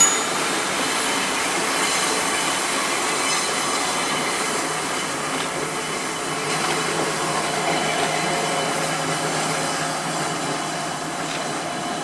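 Diesel multiple unit passenger train running across a curved viaduct, a steady rumble of wheels on rails, with a thin wheel squeal from the curve in the second half.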